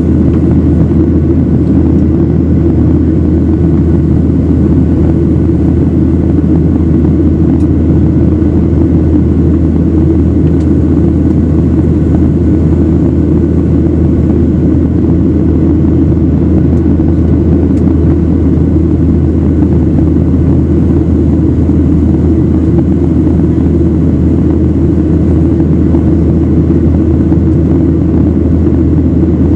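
Airliner's jet engines and airflow heard from inside the passenger cabin: a loud, steady low rumble that holds constant throughout.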